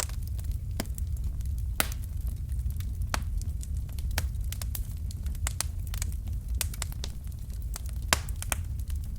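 A wood fire crackling: irregular sharp pops and snaps over a steady low rumble of the flames, with louder pops about two seconds in and again near the end.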